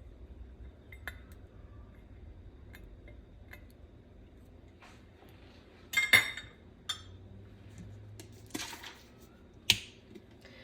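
Kitchen handling sounds: sharp clicks and knocks of containers and utensils being set down and moved on the counter, the loudest about six seconds in, with a short scraping noise near nine seconds and a last sharp click just after.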